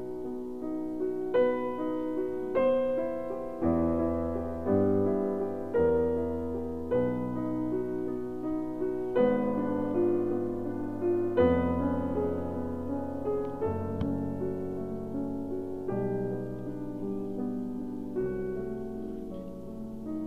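Piano music playing as a soundtrack: a slow piece of held notes and chords, a new chord struck about once a second.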